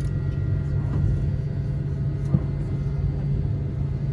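Steady low rumble and hum inside an airliner cabin with the jet engines running, a few faint steady whining tones above it. A single brief knock about two and a half seconds in.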